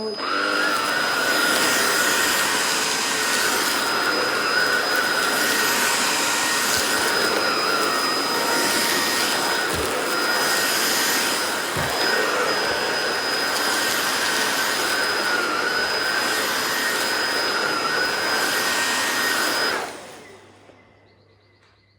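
Hoover ONEPWR Emerge Plus cordless stick vacuum running in its higher power mode: a steady rushing noise with a high, slightly wavering whine. It switches off near the end and the motor winds down.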